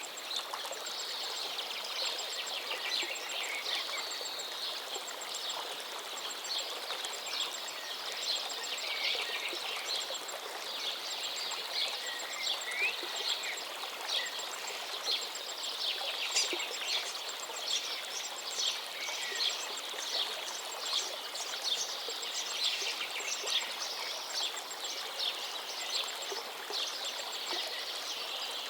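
River water flowing steadily, with many birds chirping and trilling over it throughout and a high, fast repeated ticking call running through the chorus.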